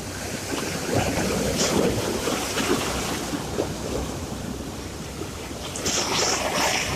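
Sea surf: waves washing in, swelling about a second in and again near the end.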